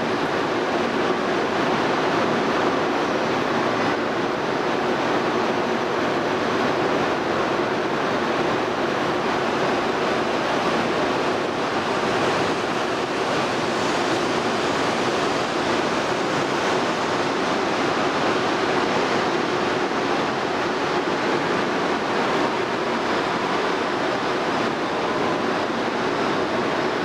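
Steady rushing noise of an E2 series Shinkansen train at an underground station platform, even and unbroken throughout.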